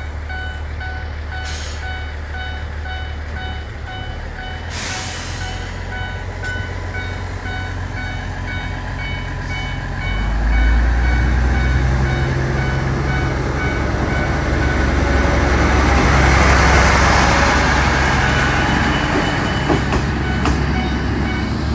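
Diesel railcar running with a steady low engine hum while a level crossing bell rings in even, repeated beats. About halfway in, the engine note jumps louder and the train gets under way, with a rushing noise building and a few wheel clicks on the rail near the end.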